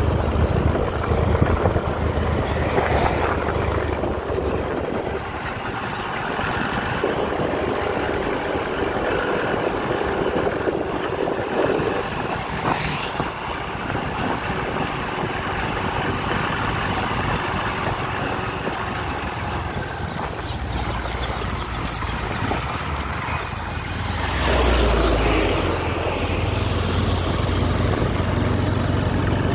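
Road vehicle noise: a motor vehicle runs steadily, with engine hum and road noise. A faint high whine comes and goes in the second half, and a heavier low rumble swells briefly near the end.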